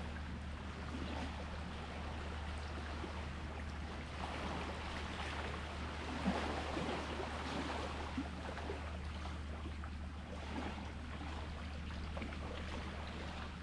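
Sea waves washing, with a wave swelling and splashing about six seconds in, over a steady low hum.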